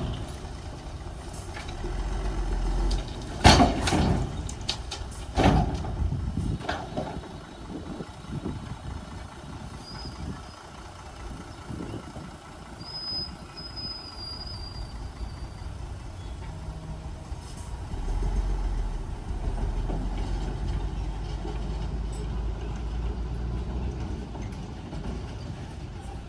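Bulldozer engine running with a steady low rumble that grows heavier in the second half, with several loud clanks in the first few seconds, the loudest about three and a half seconds in. A faint high squeal comes in the middle.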